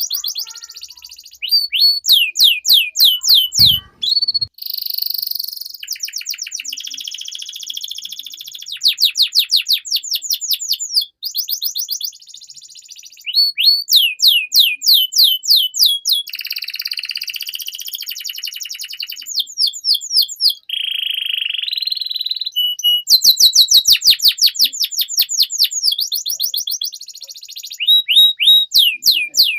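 Domestic canary singing a long, continuous song: fast trills of repeated falling notes, about six a second, alternating with buzzy rolls and short pauses.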